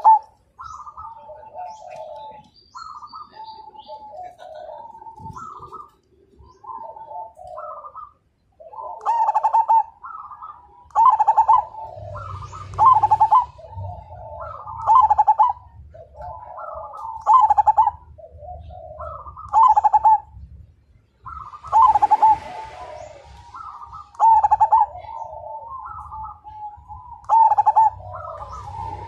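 Perkutut (zebra dove) cooing its repeated song phrases, softer for the first several seconds, then with a loud phrase about every two and a half seconds and quieter cooing in between.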